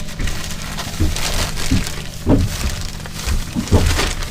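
Garlic bulb being handled and broken apart into cloves: several short knocks and papery cracks, over a steady low hum.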